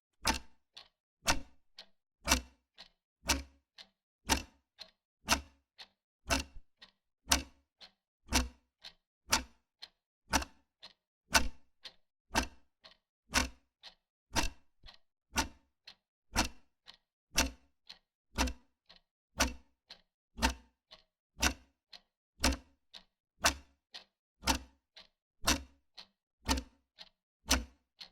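Wall clock ticking steadily: sharp ticks twice a second, alternating a louder tick with a softer tock.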